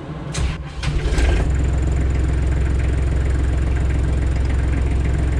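Kubota L3430 tractor's diesel engine starting with the clutch pushed in and running steadily at idle, which shows the safety start system letting it start. A few light clicks come first, and the engine cuts out near the end.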